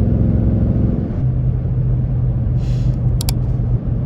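2024 Mustang GT's Coyote V8 with active exhaust, heard from inside the cabin while driving, over steady road rumble. About a second in, the fuller engine note thins to a steady low drone. Two sharp clicks come near the end.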